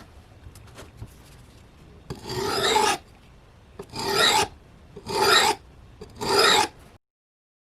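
Four rasping hand strokes of an abrasive or file drawn across the cleaver, each lasting about half a second to a second, about a second apart.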